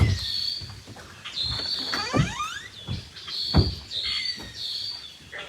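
A bird calling over and over in short, high, squealing notes, about two a second. There are several dull thumps among the calls.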